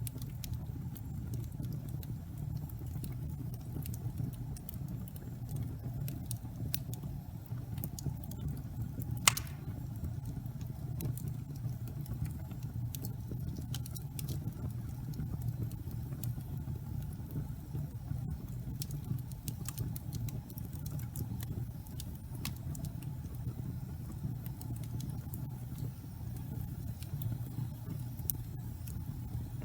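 Wood fire crackling in a fireplace: a steady low rumble of burning with scattered small crackles and one sharp pop about nine seconds in.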